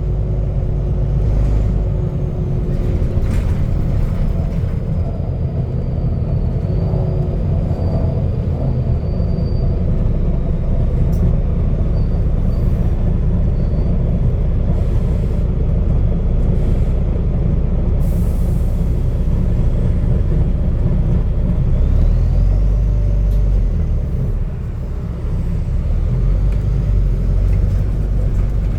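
Volvo B9TL double-decker bus's straight-six diesel heard from on board, a loud, deep rumble from its burst exhaust, with faint thin squeals over it.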